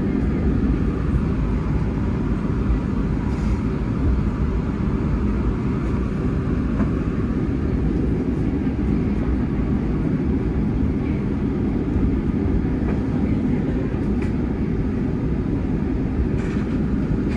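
Steady low rumble of an electric train standing at a station platform, heard from inside the driver's cab.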